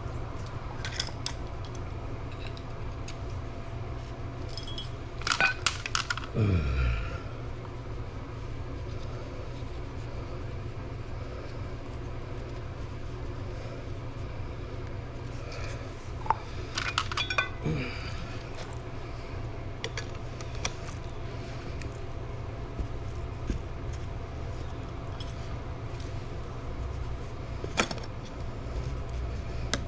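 Small metal objects clinking and rattling in a few short bursts, about five seconds in, again around sixteen to eighteen seconds and once near the end, over a steady low hum; one sound glides down in pitch about six seconds in.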